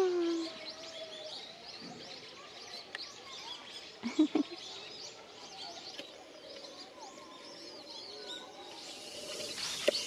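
Small birds chirping, many short high calls overlapping. A brief, louder low call cuts in about four seconds in, and a steady hiss rises near the end.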